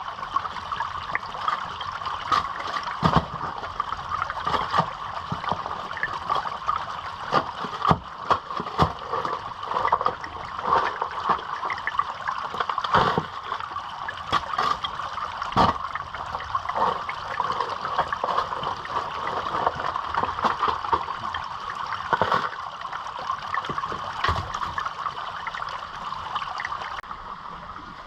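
Fast water running steadily down a gully creek, with frequent sharp knocks and scrapes of stones and gravel as wash is dug out of the bank into a gold pan.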